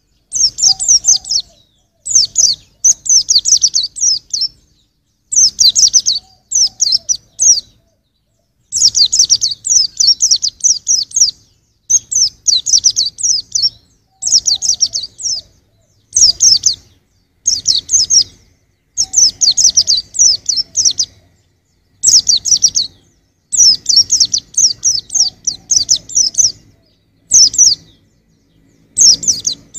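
White-eye (pleci) singing: rapid, high-pitched twittering phrases, each a second or two long, repeated again and again with short pauses between.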